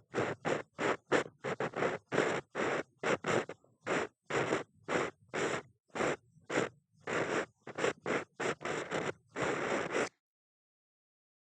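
Ear pick (mimikaki) scraping and rubbing in an ear in short strokes, about two to three a second, close to the microphone; it stops dead about ten seconds in.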